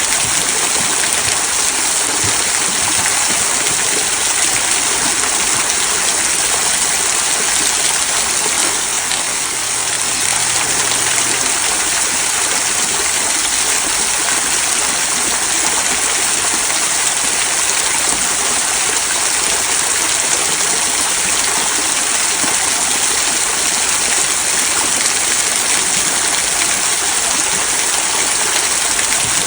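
Small waterfall trickling over mossy rocks into a stream below, a steady rush and babble of falling water.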